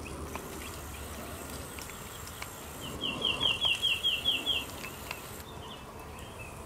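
A bird calling: a quick run of about eight short, slightly rising chirps, about five a second, starting about three seconds in, with a few fainter notes later, over a faint steady insect hum.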